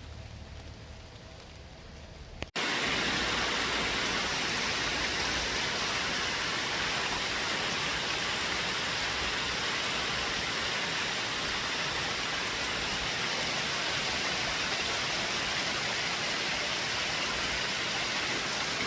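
Heavy lake-effect rain falling steadily, a dense even hiss. It cuts in abruptly about two and a half seconds in, after a quieter low hum.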